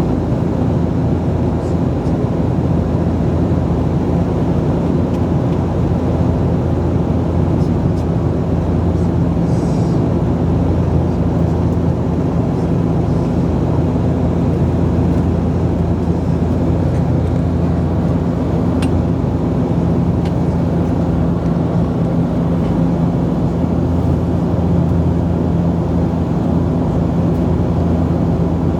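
Steady cabin drone of a Bombardier Dash 8-Q400 in flight: its Pratt & Whitney PW150A turboprops and propellers giving a constant low hum with a few steady tones.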